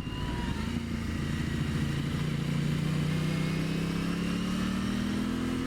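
2023 Aprilia Tuono 660's parallel-twin engine pulling steadily in one gear, its pitch rising slowly as the bike gains speed.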